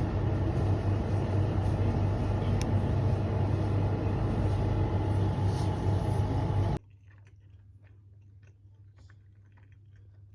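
Steady low rumble of a moving vehicle with a strong low hum that cuts off abruptly about seven seconds in, leaving quiet with faint small clicks.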